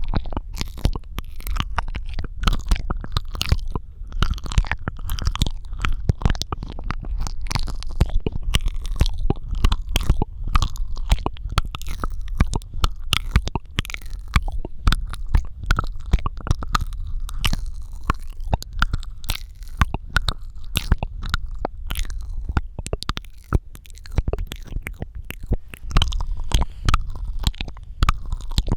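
Close-miked ASMR mouth sounds: a dense, unbroken run of wet clicks, smacks and tongue pops, many a second, over a steady low rumble.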